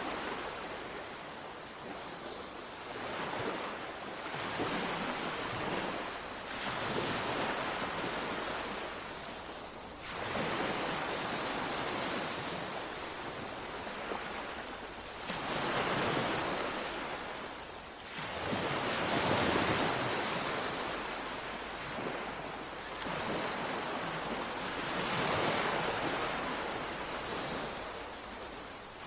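Sea waves breaking and washing up the shore, the surf swelling and falling back every few seconds.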